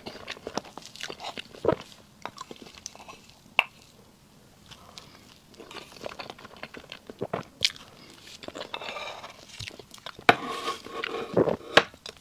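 Close-up chewing of soft cream cake, with many short mouth clicks at an uneven pace and a busier stretch near the end.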